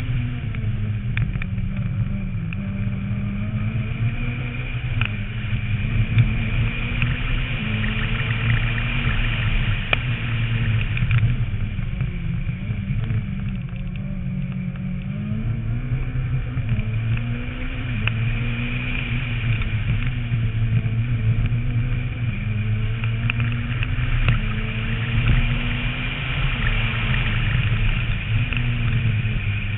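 Renault Mégane rally car's engine revving hard, its pitch rising and falling again and again as it is driven flat out through the gears, with steady road noise, heard from a roof-mounted camera.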